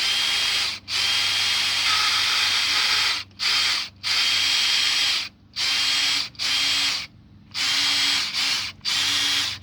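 Electric drill turning an engine oil pump through a priming rod, run in about eight bursts with short pauses. The pump spins with no resistance, which the owner takes for an oil pump problem with no pressure.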